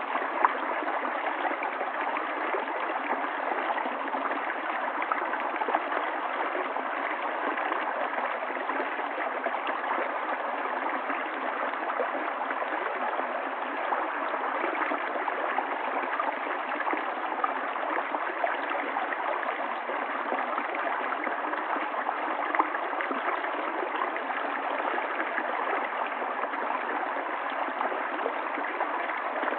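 River water running steadily over rocks, a continuous burbling and splashing rush.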